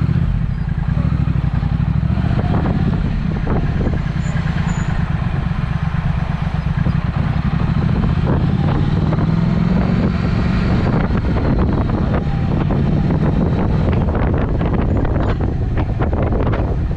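Triumph Speed Twin's parallel-twin engine running through a Vance & Hines exhaust under way, a steady pulsing exhaust note that climbs a little in pitch around the middle and then eases off. Through the later part, sharp crackles scatter over the engine note.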